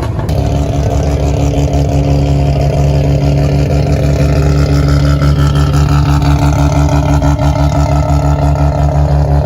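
Loud modified car engine held at steady revs, its exhaust note pulsing rapidly and even in pitch, neither rising nor falling.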